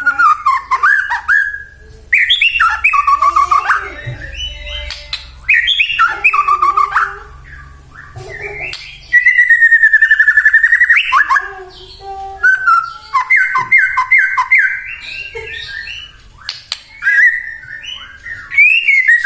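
White-rumped shama (murai batu) singing a loud, varied song of whistled phrases with gliding notes, with a fast rattling trill about nine seconds in and a run of quick repeated notes a few seconds later.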